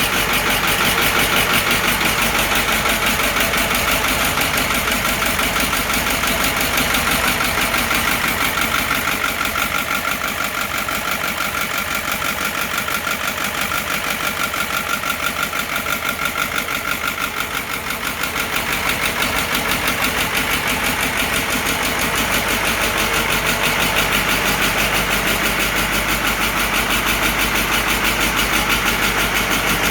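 Caterpillar 3208 V8 diesel in a White 2-180 tractor idling cold, started at 18 degrees without ether or block heater. It runs with a steady, rapid beat that eases slightly partway through, then comes back.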